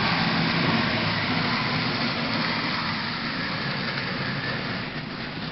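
Model Santa Fe Northern steam locomotive running along the layout's track, a steady rumble of wheels and motor that slowly fades as it moves away.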